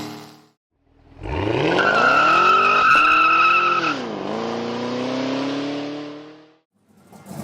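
A V8 car accelerating hard. Engine pitch climbs from about a second in, drops at a gear change around four seconds, climbs again and fades out. A steady high-pitched tone rides over the first pull.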